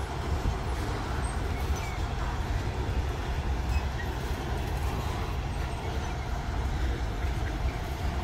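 A train running, a steady low rumble with no pauses.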